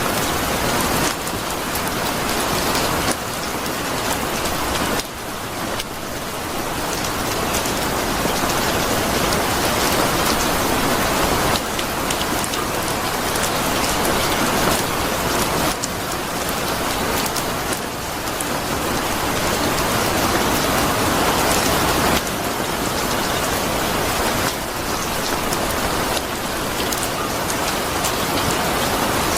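Steady rain falling on a surface: a dense, even hiss of many drops, with no thunder. Its texture shifts abruptly every few seconds.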